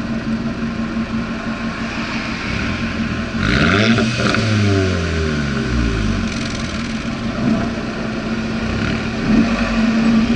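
Scirocco R's turbocharged four-cylinder engine running through a near straight-pipe exhaust with the resonator deleted. About three and a half seconds in, the revs rise sharply with a loud rasp, then fall away over about two seconds.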